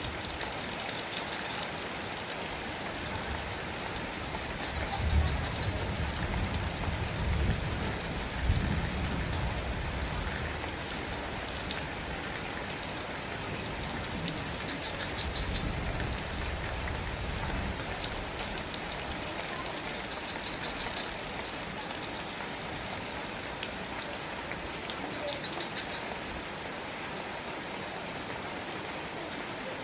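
Steady rain falling, an even hiss with scattered drops. A low rumble swells underneath from about five to nine seconds in, and again more briefly later.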